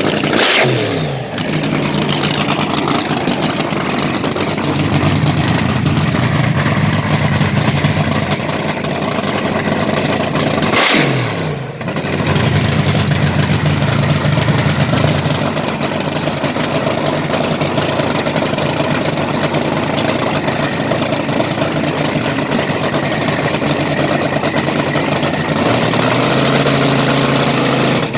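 Hot rod car engine idling loudly, revved twice, about half a second in and again about eleven seconds in, each rev dropping back to the idle.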